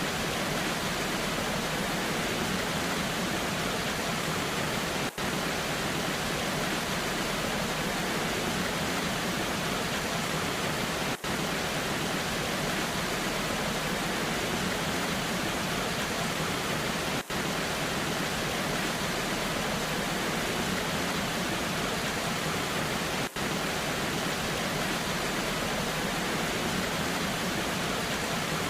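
Steady rushing water of a waterfall in the rain, an even unbroken noise. It is interrupted by a very brief dropout about every six seconds, four times.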